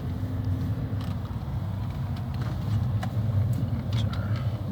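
Car driving, heard from inside the cabin: a steady low road-and-engine rumble with a few faint clicks.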